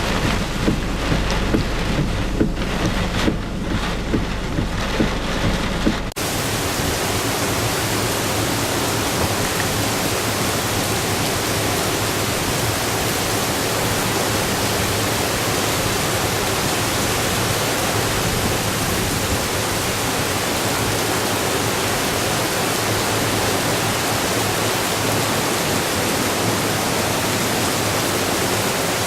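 Typhoon wind gusting and buffeting the microphone with a low rumble. About six seconds in it cuts abruptly to a dense, steady hiss of torrential typhoon rain.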